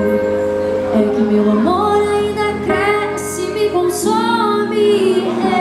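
A song playing: a female voice singing long, sliding notes over sustained musical accompaniment.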